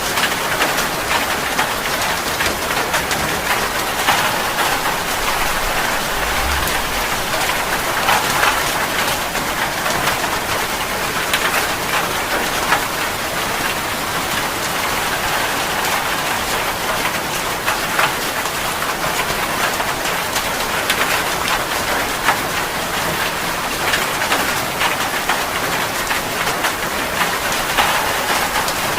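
Heavy rain falling steadily: a dense, even hiss with many sharp individual drop hits on a surface.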